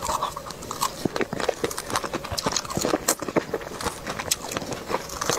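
Close-up eating sounds: biting into and chewing fresh strawberries, a rapid, irregular run of wet crackles and clicks from the mouth.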